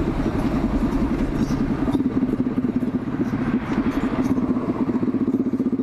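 Z200S motorcycle engine running steadily with a fast, even pulse.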